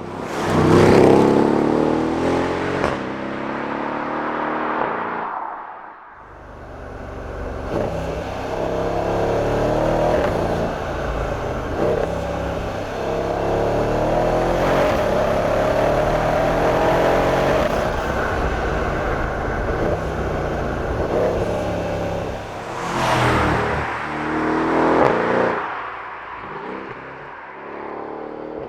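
Mercedes-Benz CLS63 AMG Shooting Brake's biturbo V8 under hard acceleration: a loud surge at the start that falls away, a short lull about six seconds in, a long pull of around fifteen seconds, then another loud rise and fall near the end.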